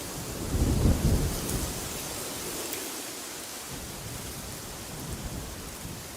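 Steady hiss of wind, with a deep low rumble that swells about half a second in and fades away by about two seconds.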